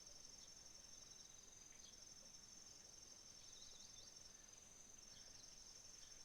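Faint chorus of autumn crickets: one steady, rapid high trill, with a second, lower trill that starts and stops a few times, and a few short scattered chirps.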